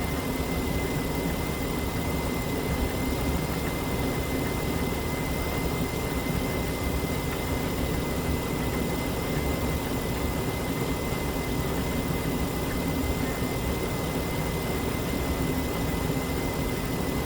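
Chrysler Town & Country's 3.8-litre V6 idling steadily with the radiator cap off, run to circulate the coolant and purge air from the cooling system after a radiator replacement. A thin steady whine sits above the engine hum.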